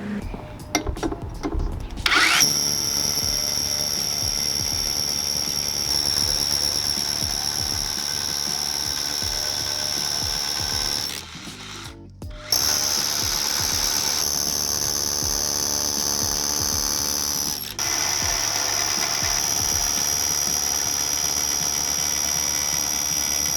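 DeWalt DCH293 cordless brushless SDS Plus rotary hammer hammer-drilling into soft concrete block, running steadily without bogging down. It starts about two seconds in, pauses for about a second near the middle, then runs on.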